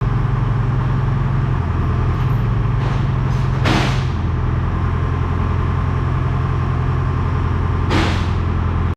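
Heavy truck diesel engine running steadily, with two short bursts of air hiss about four seconds apart.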